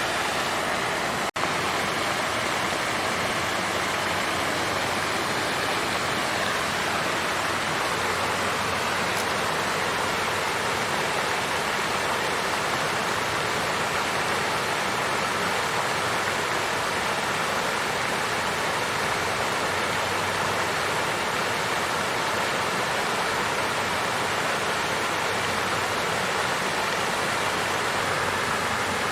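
Water fountain flowing and splashing steadily, with a momentary dropout about a second in.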